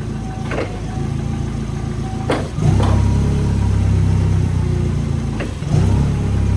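Forklift engine running, growing louder about two and a half seconds in and again near the end as it is worked, with a few brief knocks and a faint beep repeating at intervals.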